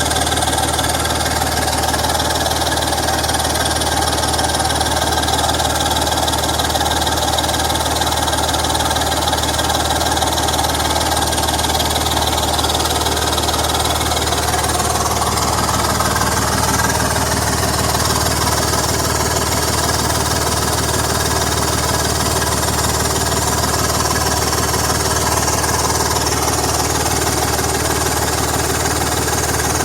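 BMW M54 straight-six engine running steadily at idle, with the rapid pulsing noise of an exhaust leak.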